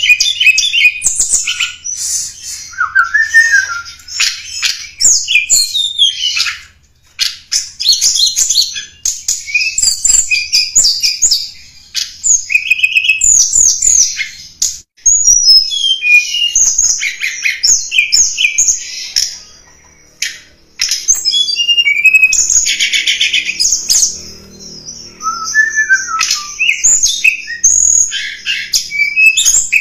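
Tledekan gunung song from a lure-call recording: quick high-pitched chirps, short up-and-down whistled notes and trills in busy phrases, with a few brief pauses between bursts.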